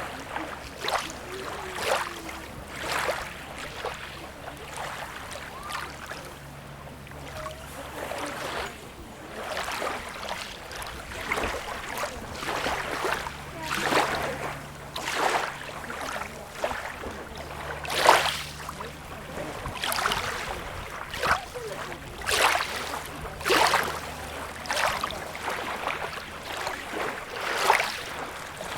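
Small sea waves lapping and splashing at the shore in quick, irregular splashes about once a second, over a faint steady low hum.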